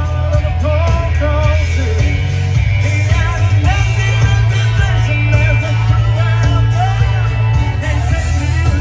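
Live country band playing loud through a concert PA, with electric guitar, heavy bass and a singing voice.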